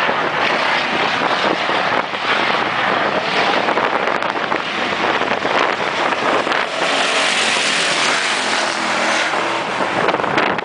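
Race cars' engines running hard on the track, a dense continuous engine noise, with one engine's note rising and falling as it passes between about 7 and 9 seconds in.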